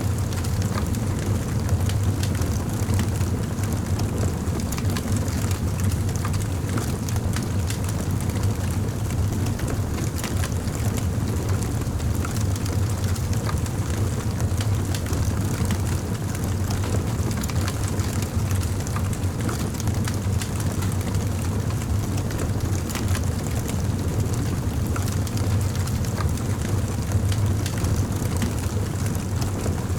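Campfire burning: a steady low rumble of the flames with scattered crackles and pops from the burning wood.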